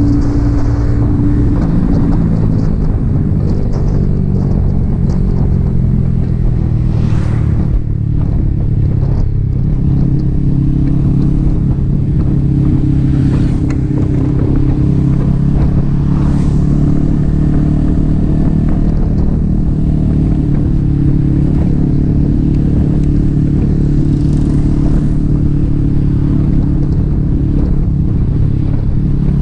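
Yamaha XSR 155's single-cylinder engine with an aftermarket M4 exhaust running at road speed. The engine note drops about a second in, then holds steady, with a few brief whooshes of passing air.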